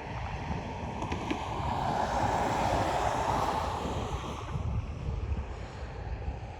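Steam train running past, a rushing rumble that swells to a peak about halfway through and then fades, with wind buffeting the microphone.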